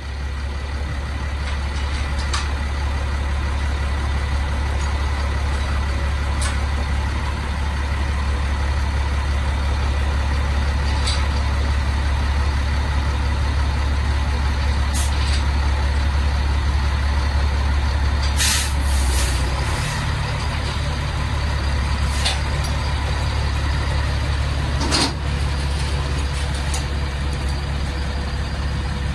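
Freightliner FL60 dump truck's 7.2-litre turbo diesel idling steadily, its note shifting slightly about two-thirds of the way through. A short burst of air-brake hiss and a few sharp clicks sound over the idle.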